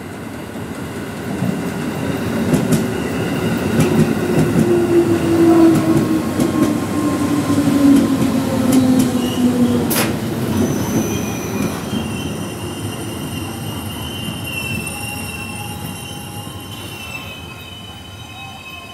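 A 211 series electric train runs into the station and brakes to a stop, its whine falling in pitch as it slows. There is a sharp click about ten seconds in, then high wheel and brake squeal as it comes to a halt.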